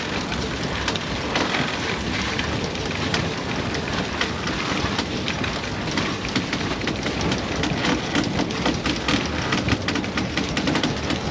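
Wind buffeting the microphone and water rushing and splashing past the hull of a sailing yacht under way close to the wind. It is a steady noise with a deep rumble and constant fine crackling.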